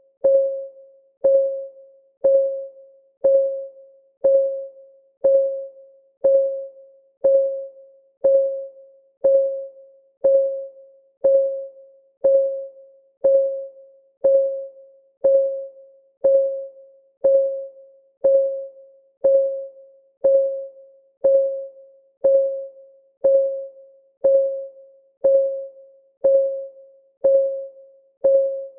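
Timer clock ticking steadily, one tick a second. Each tick is a short click with a ringing tone that dies away before the next.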